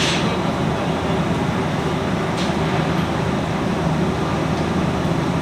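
Steady low mechanical rumble of running machinery, with one faint click about two and a half seconds in.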